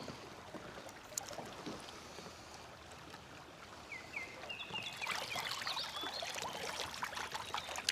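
Water splashing and trickling beside a kayak, busier from about five seconds in, with a few short high chirps shortly before.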